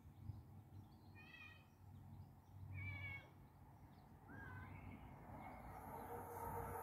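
Two short animal calls about a second and a half apart, then a brief gliding call, over faint outdoor background. From about two thirds of the way in, a faint hum with steady held tones rises as a Class 68 train approaches along the rails.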